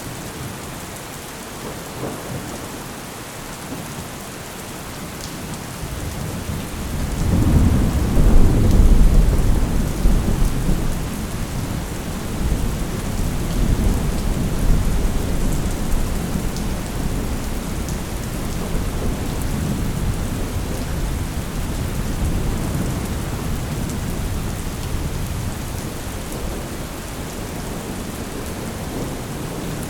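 Thunderstorm: steady heavy rain, with a long rolling peal of thunder that builds about six seconds in, is loudest a few seconds later, then rumbles on and slowly fades under the rain.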